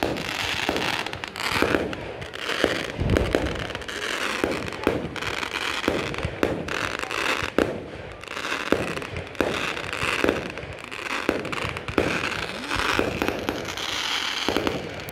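Fireworks display: a steady string of bangs and pops from bursting shells, one or two a second, over a continuous crackling hiss from ground fountains. A deeper boom comes about three seconds in.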